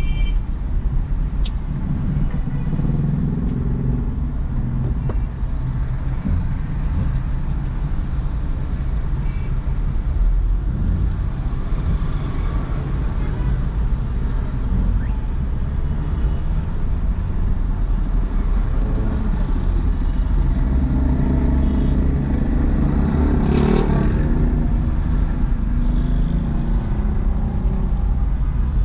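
Steady road traffic noise with car engine and tyre rumble, heard while driving along a busy city road. A louder vehicle swells past about three-quarters of the way through.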